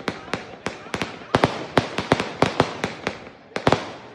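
Fireworks going off: a rapid, irregular run of sharp cracks, about four a second, each with a short echoing tail.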